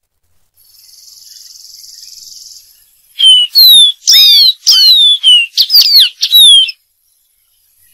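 Dark-throated seedeater singing: after a fainter steady buzz, a loud phrase of about eight quick whistled notes, most sliding down in pitch, starts about three seconds in and lasts about three and a half seconds.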